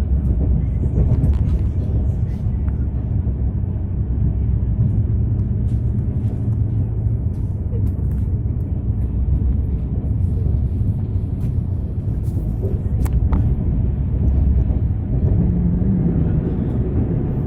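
Steady low rumble of a moving passenger train heard from on board, with a few faint clicks and rattles.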